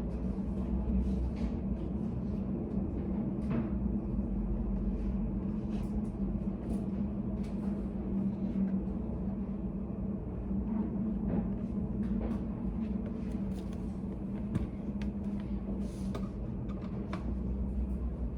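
Study cafe room ambience: a steady low hum with scattered faint clicks and taps, like pens and pages at the desks.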